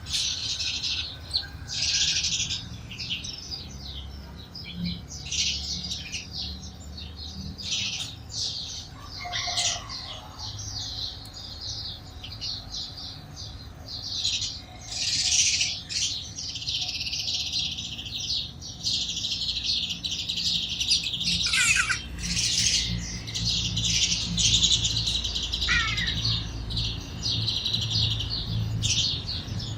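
A flock of sparrows chirping continuously: many short, high chirps overlapping, with a few quick falling notes here and there.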